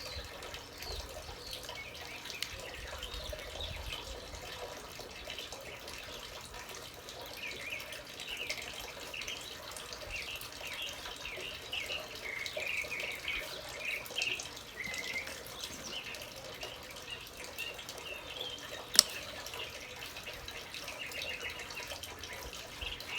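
Small birds chirping intermittently over a steady faint hiss, with one sharp click late on.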